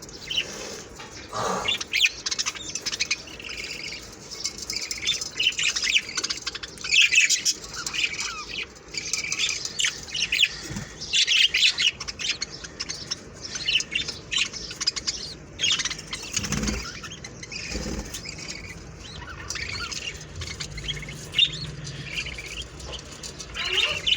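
Parrots chirping and chattering: many short, high chirps in quick succession, with a couple of dull thumps about two-thirds of the way through.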